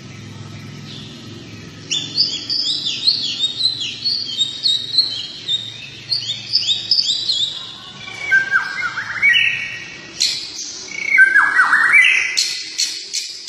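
Songbird song, a fast run of sharp chirps and whistled notes that starts about two seconds in. In the second half the notes turn lower, with quick downward-sweeping calls, loudest near the end.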